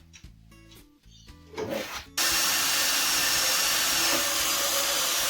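A power tool cutting or grinding: a loud, steady, hissing noise that starts abruptly about two seconds in.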